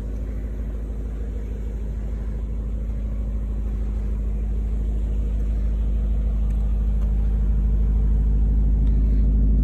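BMW E39 M5's S62 V8 idling steadily with a low rumble, growing gradually louder over the few seconds.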